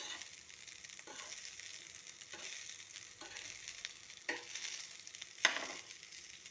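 Fried rice sizzling in a small wok as it is stirred with soy sauce, with a short scrape or knock of the stirring utensil against the pan about once a second, the loudest one about five and a half seconds in.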